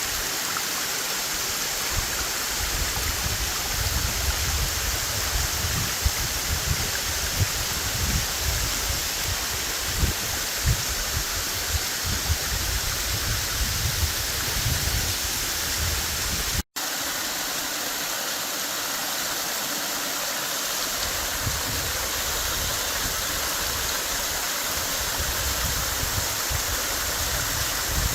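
Mary Jane Falls pouring off the cliffs in heavy spring run-off flow, a steady rushing of falling and cascading water. Through the first half there is irregular low buffeting under the rush. The sound drops out for an instant about two-thirds of the way in, then carries on more evenly.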